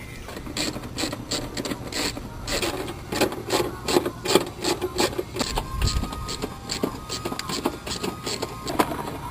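Hand tools working on metal during manifold removal: a run of irregular clicks and scrapes, several a second, as a ratchet and wrenches work the bolts.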